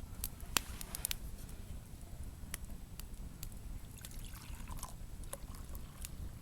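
Large wood campfire crackling: sharp pops and snaps at irregular intervals over the low, steady rush of the flames.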